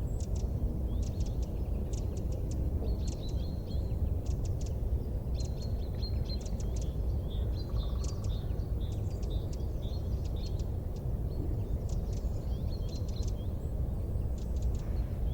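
Wood fire crackling: frequent irregular sharp pops and ticks over a steady low rumble.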